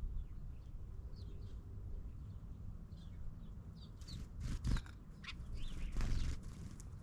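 Several birds chirping with short, repeated calls, which grow busier and louder about halfway through, over a low steady rumble. A few sharp clicks come in the second half.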